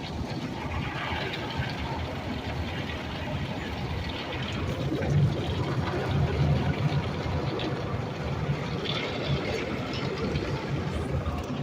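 Tunnel car wash machinery running: a steady rumble with a rushing, hissing noise over it, swelling somewhat about five to seven seconds in.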